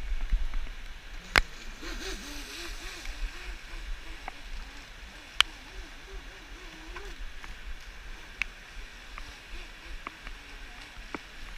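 Electric RC jet boat running on a river: a faint motor whine that wavers up and down in pitch, over the steady rush of river water and a low rumble. A few sharp clicks, the loudest about a second and a half in and again near the middle.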